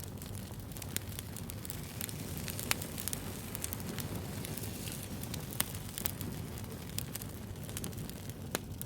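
Wood fire crackling: a steady low hiss with irregular sharp pops, the loudest about three seconds in and again near six seconds.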